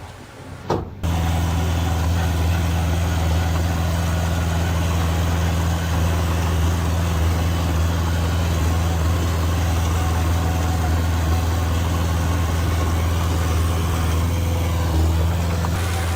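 Diesel engine of heavy earthmoving machinery running steadily with a low, even drone, cutting in abruptly about a second in.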